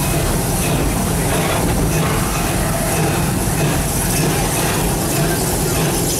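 Open-car park train running along its track: a steady rumble from the locomotive and the cars on the rails.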